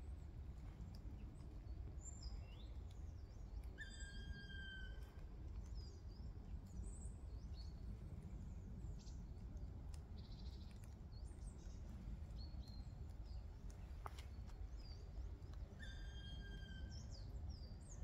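Wild forest birds calling: scattered short, high chips and squeaks throughout, and twice, about four seconds in and near the end, a clearer drawn-out call that falls slightly in pitch. A steady low rumble lies underneath.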